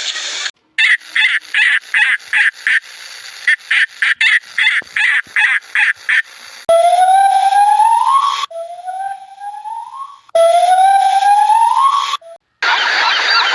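Animal calls: a quick series of short calls, about two to three a second, then three long calls that each rise steadily in pitch.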